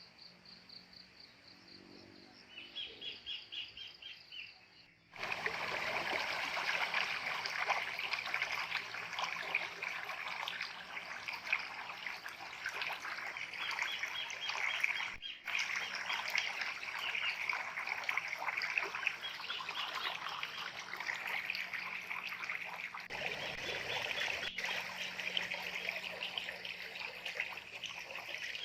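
Wild birds calling in quick repeated series; about five seconds in the sound jumps abruptly to a loud, dense rush like running water, with birdsong continuing over it.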